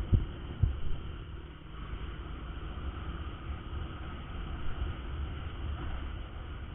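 Honda Verza 150 motorcycle on the move, heard through a helmet camera: a steady low rumble of engine and wind on the microphone, with a couple of sharp knocks in the first second.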